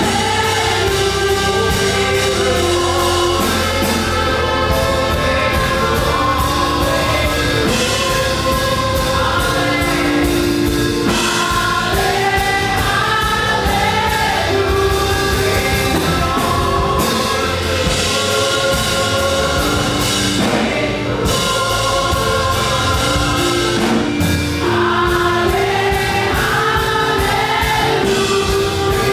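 Choir and congregation singing a fast gospel praise song with live band accompaniment, over a steady bass and driving beat.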